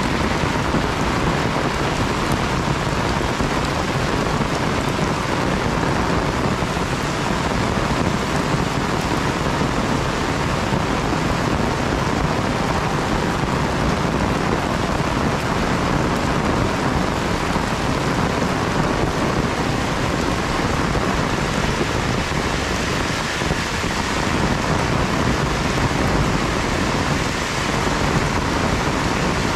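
Heavy rain falling, a dense, steady hiss of rain striking surfaces with no breaks.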